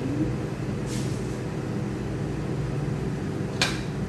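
Steady low mechanical hum, with two short light clinks, one about a second in and one near the end, typical of kitchen utensils touching a dish.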